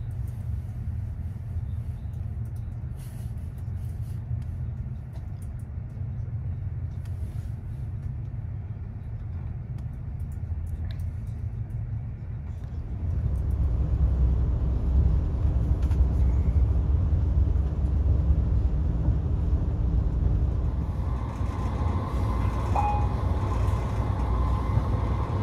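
Cabin noise inside a VR Pendolino Sm3 electric tilting train running along the line: a steady low rumble of wheels on rail, which grows louder about halfway through.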